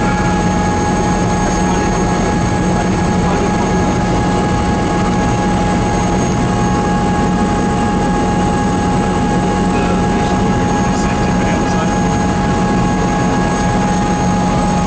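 Helicopter running steadily: a dense, even rumble with several steady high whines running through it.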